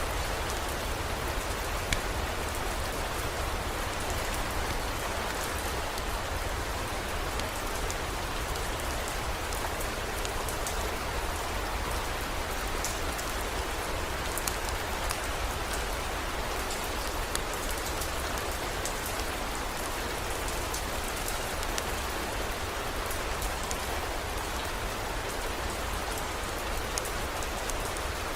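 Heavy rain falling steadily: an even hiss with scattered sharp drop ticks and a steady low rumble underneath.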